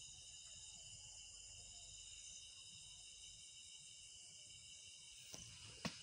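Faint, steady chorus of crickets singing at night, with two sharp knocks near the end.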